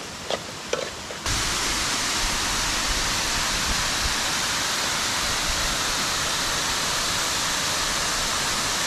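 Steady rushing of a waterfall, which cuts in abruptly about a second in after a few faint short sounds.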